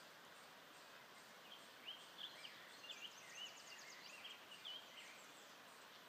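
Faint songbird song: a run of short chirping notes with a quick high trill in the middle, starting about a second and a half in and stopping near the end, over a near-silent background hiss.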